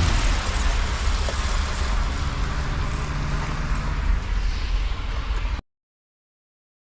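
Steady low rumble and hiss of a car, heard from inside the cabin; it cuts off abruptly about five and a half seconds in.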